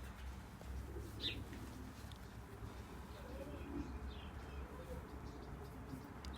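Pigeons cooing with wild sparrows chirping: one sharp chirp about a second in and fainter ones later. The keeper takes the sparrows' chirping for their alarm at a bird of prey that is back.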